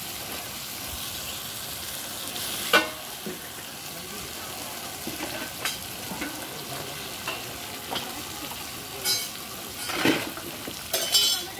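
Masala paste frying in oil in a large metal kadai, sizzling steadily while a flat spatula stirs it. Every few seconds the spatula scrapes or knocks sharply against the pan, loudest about three seconds in and several times near the end.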